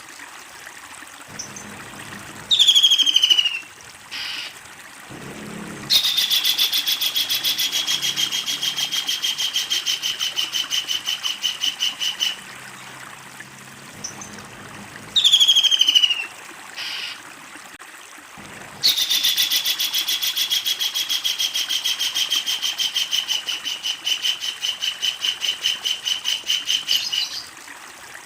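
Kingfisher calling twice: each time a sharp falling screech, then a long, rapid laughing rattle of repeated notes lasting several seconds.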